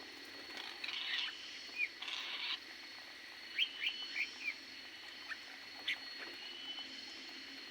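Aviary birds calling: two short scratchy bursts in the first few seconds, then a quick run of short chirps about halfway through and a few single chirps after, over a faint steady high tone.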